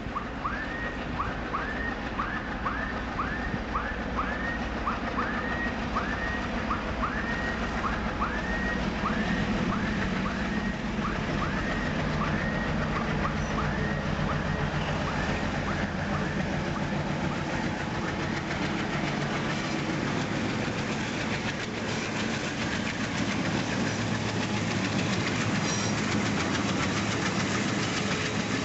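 Freight train hauled by MLW diesel locomotives rolling past, with a steady rumble of engines and wheels on rails. Over roughly the first twelve seconds a short high squeak repeats about twice a second, then fades out.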